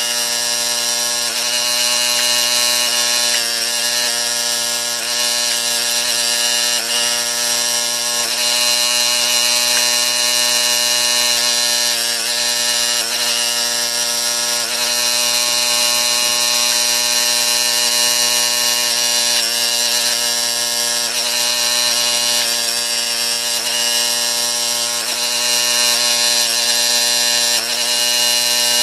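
Small gas engine of a County Line log splitter running steadily at full throttle while it splits logs, its pitch holding with hardly any bogging under the hydraulic load.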